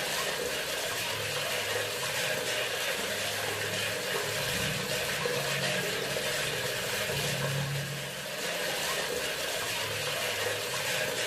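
Bathroom sink faucet running, a steady, even rush of flowing water with a faint low hum that comes and goes.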